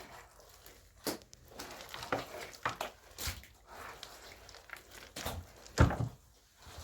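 Irregular knocks, thuds and scuffs with rustling between them, echoing as in a small enclosed space. A heavier thud about six seconds in is the loudest.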